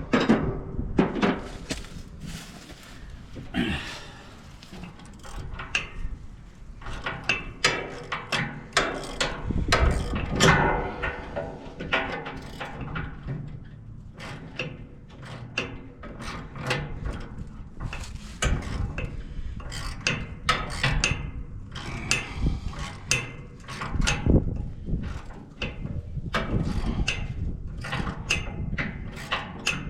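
Hand tools working on the blade bolts of a wood chipper: a ratchet wrench clicking and metal clanking and knocking in irregular bursts as the bolts are loosened.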